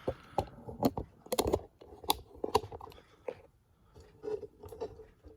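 Handling noise: a string of irregular clicks, taps and light knocks, some with a short hollow ring, fewer and quieter toward the end.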